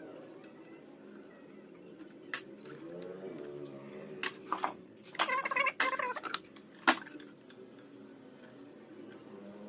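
Small metal tools and parts clinking and tapping on a workbench during electronics repair and soldering work: a handful of light clinks, bunched together a little past halfway, ending in one sharp click.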